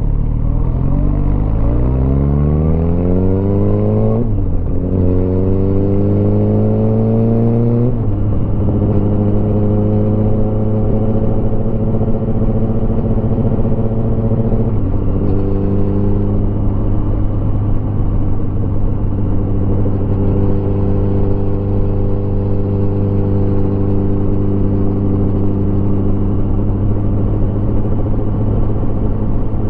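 Motorcycle engine accelerating through the gears: its pitch climbs and drops at upshifts about four and eight seconds in, with one more shift near fifteen seconds, then it runs at a steady pitch at cruising speed.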